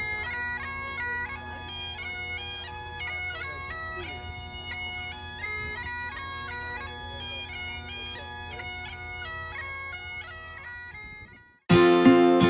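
Bagpipes playing a melody over steady held drones. The piping stops shortly before the end, and louder acoustic guitar strumming starts.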